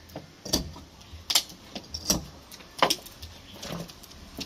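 About five sharp knocks, roughly one every three-quarters of a second: wooden formwork boards being worked loose from a freshly cast concrete lintel.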